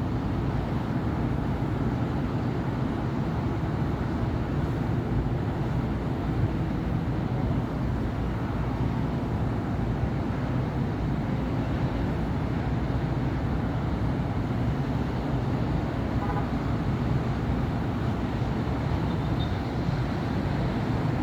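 Steady city street traffic: cars and buses passing in a continuous low hum of engines and tyres, with no single vehicle standing out.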